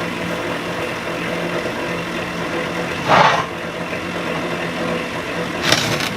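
A vehicle engine idling steadily, with two short, louder rasping noises: one about three seconds in and one near the end.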